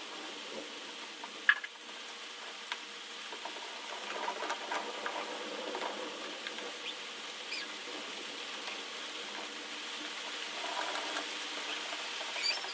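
A spoon stirring thick batter in a bowl: scattered scraping and small clicks, with a sharp tap about a second and a half in, over a steady hiss.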